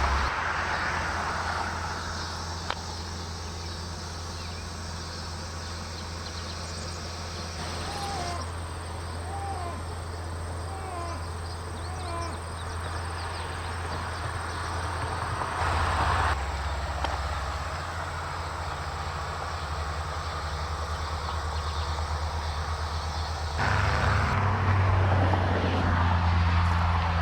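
A vehicle's steady low running hum with road and wind noise, getting louder about two-thirds of the way in. Partway through, about five short chirps sound, roughly one a second.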